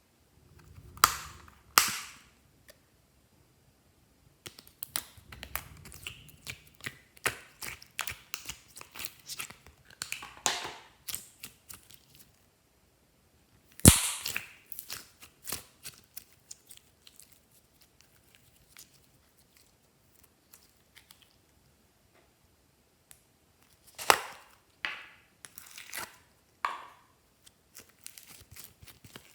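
Glossy slime being squished and pressed by hand: irregular sticky clicks and small popping sounds, coming in bursts with pauses between. There are a few sharper pops, the loudest about a third of the way in.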